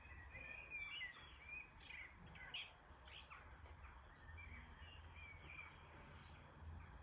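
Faint birdsong, short chirps and warbled notes, over a low steady rumble of background noise.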